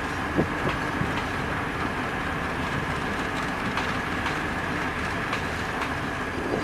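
Pramex commuter train's coaches rolling past on the track, wheels clicking over rail joints at an uneven pace over a steady rumble and a faint high whine.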